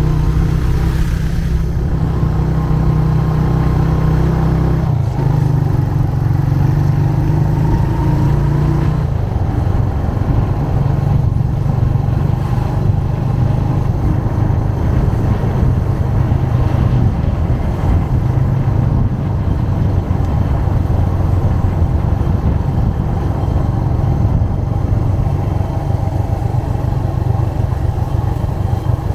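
Motorcycle engine running steadily while riding. Its tone shifts about five seconds in and becomes rougher and noisier from about nine seconds on.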